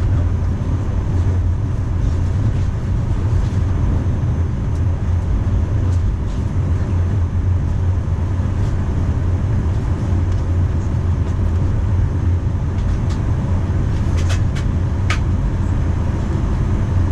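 Steady low rumble inside the cabin of a Boeing 737-900 with its CFM56-7B engines running, with a few faint clicks near the end.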